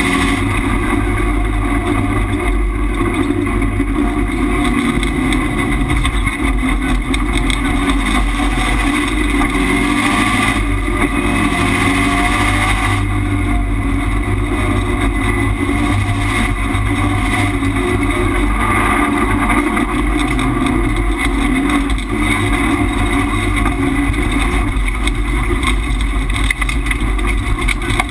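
Subaru Impreza rallycross car's turbocharged flat-four engine driven hard at racing speed, heard from inside the stripped-out cabin: loud and continuous, with no lifts or pauses.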